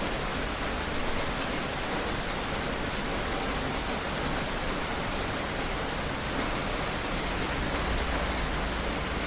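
Heavy rain falling steadily, a dense even hiss with scattered sharper drop ticks. A low rumble strengthens near the end.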